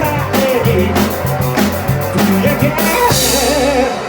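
Rock band playing live: a drum kit beating a driving rhythm under bass and wavering melodic lines. The low bass drops out just before the end.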